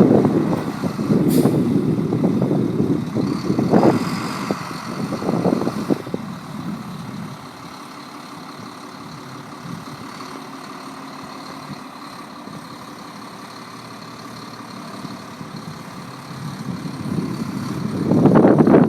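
Volvo A25D articulated dump truck's diesel engine running as the truck moves. It is loud at first, drops away to a lower steady level about seven seconds in, and rises again near the end.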